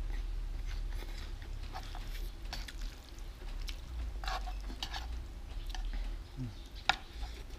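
A person chewing a mouthful of noodles, then chopsticks and a metal spoon scraping and clicking in a non-stick pan as he stirs. One sharp click near the end is the loudest sound.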